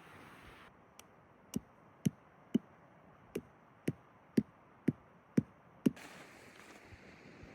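A series of about ten sharp knocks, evenly spaced at about two a second, with a short break partway through.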